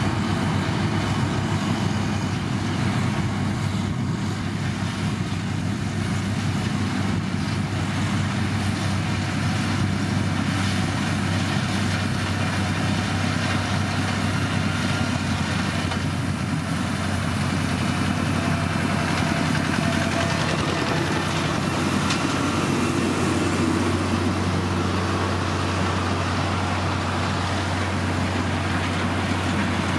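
Heavy motor grader's diesel engine running steadily with a low, even hum.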